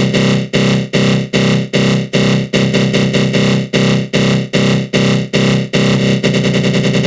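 Synthesized attack-growl sound effect: a harsh, buzzing synth tone with a flanger sweep, pulsing about two and a half times a second, then breaking into a much faster stutter about six seconds in.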